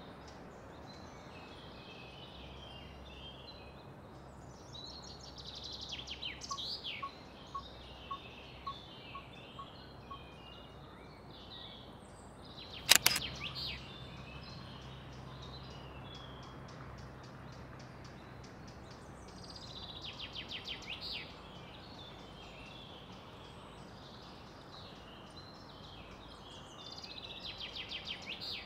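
Outdoor ambience of small birds chirping and trilling in bursts. About thirteen seconds in there is a single sharp click, the loudest sound, with a short low hum after it.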